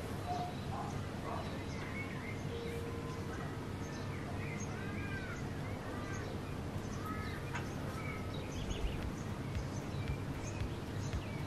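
Birds calling: a scattered series of short, arching chirps and calls over a steady low background noise, with a few soft knocks in the last few seconds.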